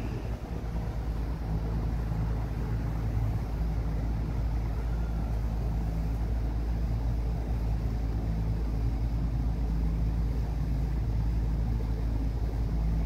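Motorboat's engine running steadily under way: a low rumble with a steady hum, mixed with wind noise on the microphone.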